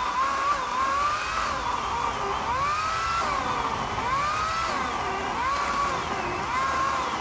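Power saw cutting firewood logs, its motor whine sagging in pitch as the blade bites and recovering, about once a second.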